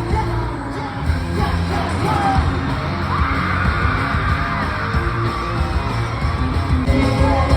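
Live K-pop concert music over an arena sound system, heavy on the bass, with singing and the audience yelling along.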